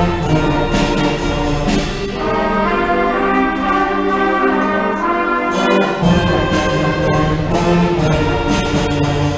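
A middle school band plays a spy-movie-flavoured holiday arrangement live, with brass to the fore over sustained chords and percussion strikes. The low bass notes drop out for a few seconds in the middle, then come back.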